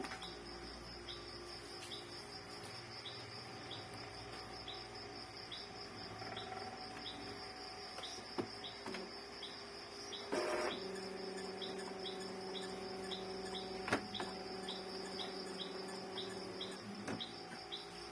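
Crickets or other insects shrilling steadily, with a short chirp repeating about twice a second. A few sharp clicks are heard, and a low steady hum sounds from about ten seconds in until near the end.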